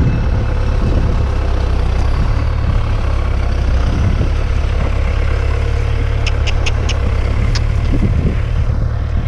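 Tractor engine running steadily with a low rumble, with a few short sharp clicks about six to seven and a half seconds in.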